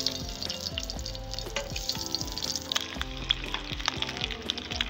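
Spice-coated boiled eggs frying in hot oil in an iron kadhai, sizzling with many sharp crackles and pops as they are added one by one.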